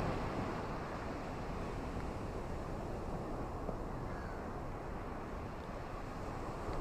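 Ocean surf washing on a shore with rain falling, a steady rushing noise.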